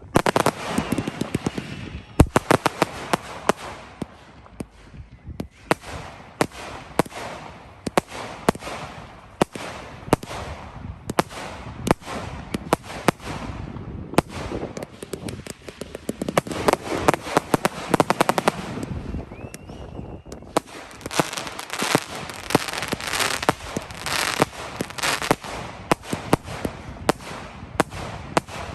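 Fireworks going off in a rapid string of sharp bangs and crackles, with short lulls, thickest about two thirds of the way through.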